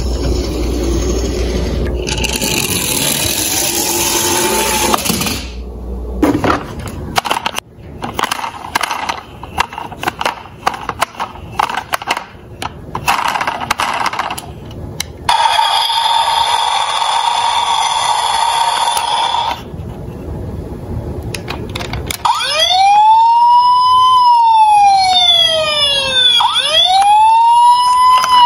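Small diecast toy cars rolling and clattering, with many sharp clicks and knocks of metal toys hitting each other and the track. About two-thirds of the way in, a loud siren starts, wailing slowly up and down, about one rise and fall every four seconds.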